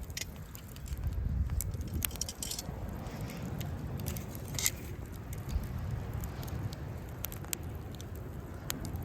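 Wood campfire crackling, with scattered sharp pops, over a steady low rumble.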